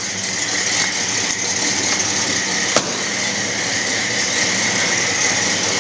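A Ford 302 crate small-block V8 idling steadily, with a single sharp click about three seconds in.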